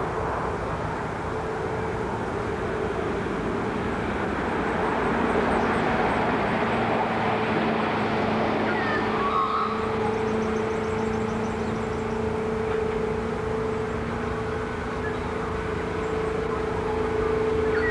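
A distant train running on the line: a steady drone with a low hum that comes in about five seconds in, over a constant hiss, with a few brief bird chirps partway through.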